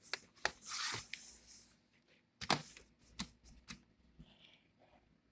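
Plastic clicks and knocks of a laptop's bottom cover and screws being handled and fitted back on, with a brief scraping rustle about a second in and a few sharp clicks after, fading out near the end.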